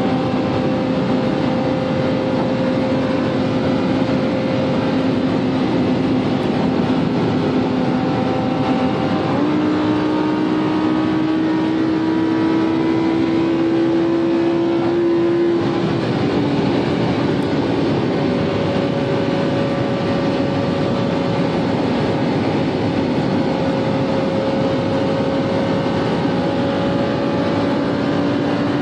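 Lamborghini Huracán's V10 engine running hard at high motorway speed, heard from inside the cabin under steady wind and road noise. The engine note creeps slowly upward in pitch and changes abruptly about nine seconds in and again around sixteen seconds.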